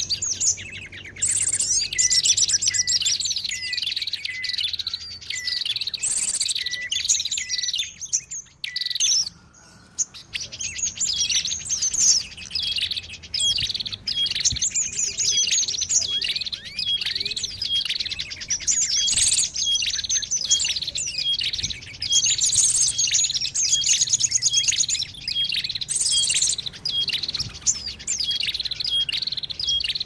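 A noisy chorus of many small songbirds chattering together, with rapid high chirps, twitters and trills overlapping. It is a bird-lure call recording, played to draw other wild birds in. The chatter dips briefly about nine seconds in, then carries on.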